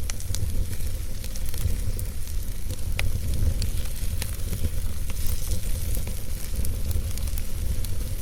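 Wood fire burning in a fireplace: a steady low rumble and hiss with scattered sharp crackles and pops from the burning logs, one louder pop about three seconds in.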